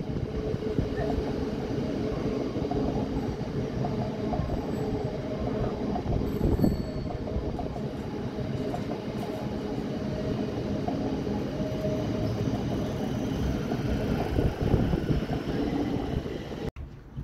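Electric multiple-unit passenger train running along the tracks and moving away: a steady rumble of wheels on rail with a faint hum. The sound cuts off abruptly near the end.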